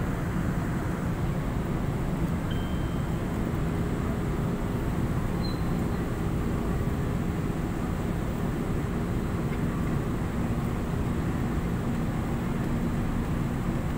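Steady low rumble and hum inside an MRT-3 train carriage, with a few faint held tones in it.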